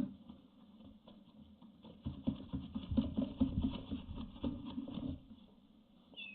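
Barn owl chicks scrabbling and pouncing on the wooden nestbox floor: a sharp knock at the start, then about three seconds of quick, rapid thumps and scratching, the sound of the chicks' hunting practice. A short owl call begins just before the end.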